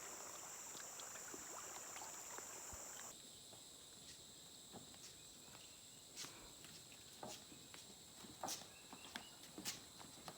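Faint, steady high-pitched insect chorus of tropical forest. About three seconds in the background changes abruptly and scattered light clicks and knocks follow.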